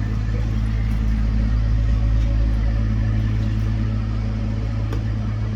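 An engine running steadily, a deep, even drone with no change in speed.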